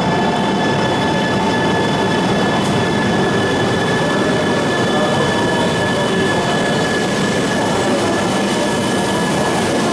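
Shinkansen train noise: a steady rumble with a constant high whine, holding an even pitch and level throughout.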